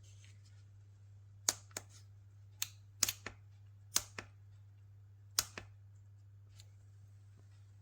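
About eight sharp clicks, several coming in quick pairs a quarter second apart, over a steady low hum.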